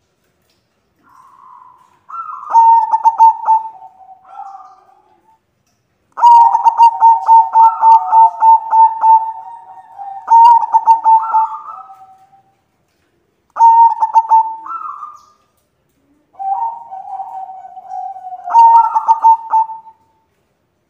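White zebra doves cooing: several phrases of rapid, staccato pulsed coos, some with a note that slides down at the end. During the longest phrase two lines of coos sound together.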